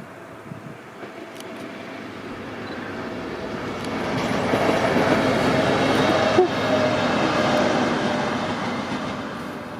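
A train passing by on the line, its rolling noise building over a few seconds, loudest in the middle with a brief sharp knock, then fading away.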